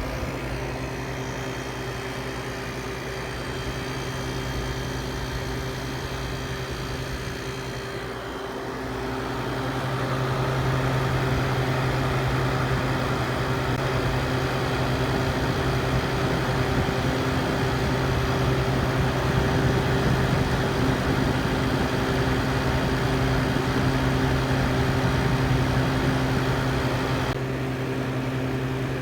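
1968 General Electric Fashionette 6000 window air conditioner running on low cool, heard from its outdoor side: a steady hum under the rush of the fan's air, growing louder about nine seconds in.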